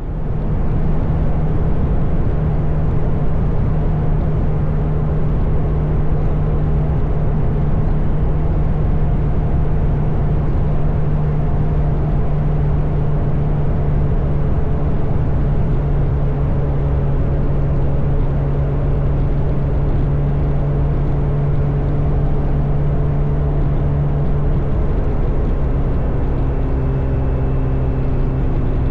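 Motorcycle engine running steadily at road speed over a constant rush of wind and road noise; near the end its pitch steps down to a lower note.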